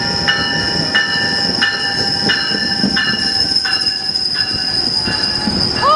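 Metrolink commuter train pulling into the station with its cab car leading, passing close by. A ringing tone repeats about every two-thirds of a second over the rumble of the cars, with a steady high squeal throughout.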